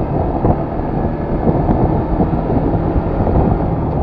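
Yamaha FZS V3 motorcycle running along the road with a steady low engine hum, under heavy wind buffeting on the microphone.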